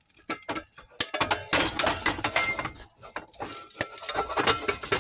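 Metal utensil and pot clattering, with scraping and clinks and short metallic rings, as the popcorn in the pot is turned over on the stove.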